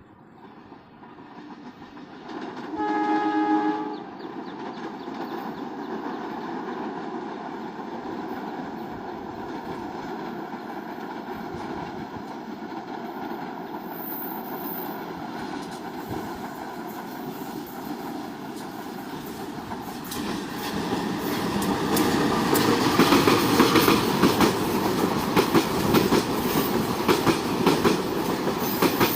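A train sounds its horn once for about a second, then its rumble and wheel clatter build steadily as it approaches, growing louder about two-thirds of the way through with fast clickety-clack of wheels over the rail joints.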